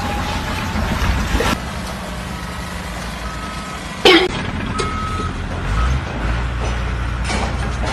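Heavy construction vehicle running with a low engine rumble while its reversing alarm beeps at about one beep a second. A single loud bang about four seconds in.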